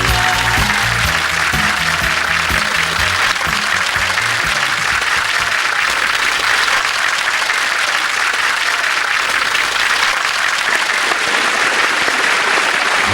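Audience applauding steadily, taking over as a song ends about a second in.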